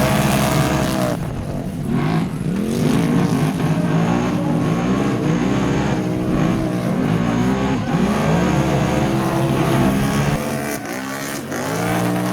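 Mega truck engine revving hard, its pitch sweeping up and down over and over, easing off briefly near the end.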